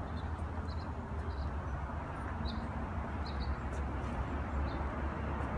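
Small birds chirping in short, separate notes every half second to a second, over a steady low outdoor rumble.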